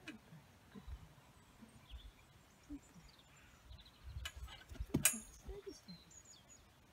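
Faint outdoor ambience with small birds chirping in the background and scattered soft low thumps. A short cluster of clicks comes about four seconds in, with the loudest sharp click just after five seconds.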